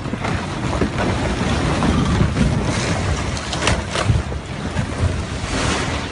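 Rockslide: a loud, continuous rumbling roar of falling rock, with a few sharp cracks about three and a half and four seconds in.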